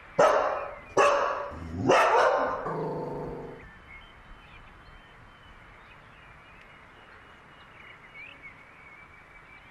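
A dog barks three times about a second apart. The third bark is drawn out longer and lower.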